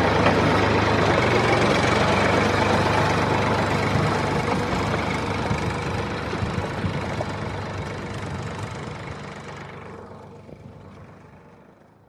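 A motor running steadily with a low hum, fading out gradually over the last six seconds or so.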